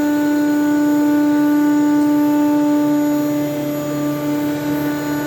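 ShopSabre CNC router spindle running as its bit cuts strips from a King StarBoard HDPE plastic sheet: a loud, steady whine with overtones. The cutting sound shifts slightly about three seconds in.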